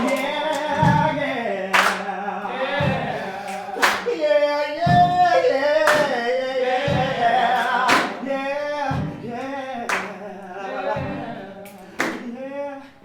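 Stage cast singing a bluesy chain-gang work song in unaccompanied voices. The song is kept in time by a steady beat of about one hit a second, alternating low stomps with sharp percussive cracks.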